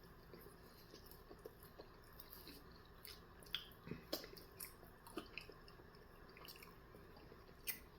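Faint wet mouth sounds of chewing: a scattering of small smacks and clicks, most of them a few seconds in and one more near the end.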